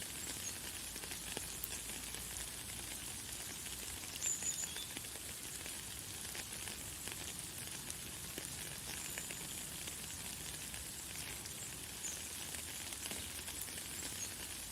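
Light, fine rain falling steadily with a fine crackling patter, with a few brief high bird chirps, the clearest about four seconds in.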